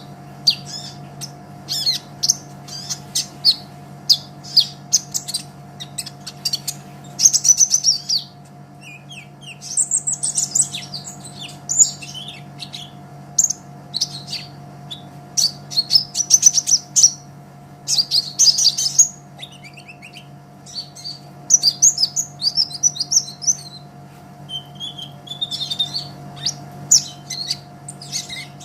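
A sunbird (kolibri ninja) singing in a lively, full song. It gives rapid, high, clicky chirps and fast trills in bursts, with short pauses between phrases, over a faint steady hum.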